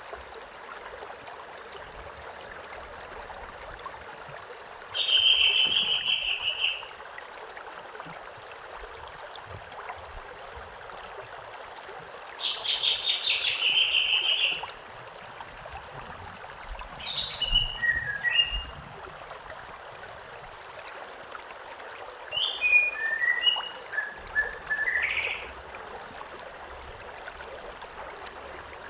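Steady rushing of a river, with a bird singing four short phrases over it: a trill, a longer buzzy trill, then two runs of quick chirps.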